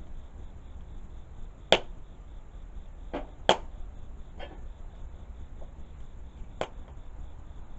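Wood fire crackling: five sharp, irregular pops of burning wood, the loudest about two seconds in, over a faint steady insect trill.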